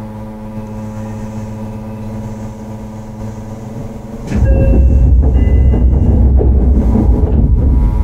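Shin-Keisei 8900 series commuter train heard from on board: a steady hum of even tones under the running noise, then about four seconds in a much louder, deep rail rumble sets in suddenly and cuts off abruptly near the end.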